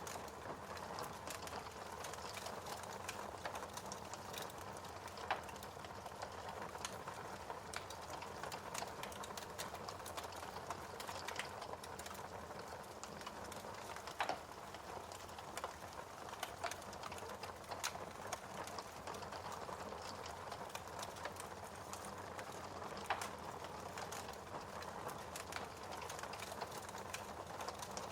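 Wood fire crackling, a dense run of small crackles over a soft hiss, with three louder pops spaced several seconds apart.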